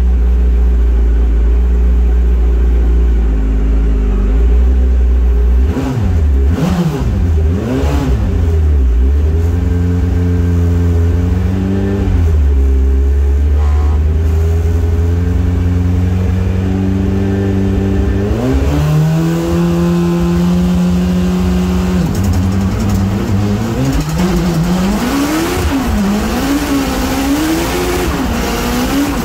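Rally car engine heard from inside the cabin. It idles at the start line, is revved up and down a few times, then held at raised revs. From about two-thirds of the way in the car pulls away and accelerates through the gears, the pitch climbing and dropping at each shift over the rush of tyres on gravel.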